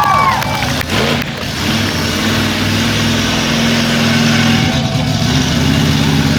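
Monster truck engine running steadily at a low, even note, without big revs.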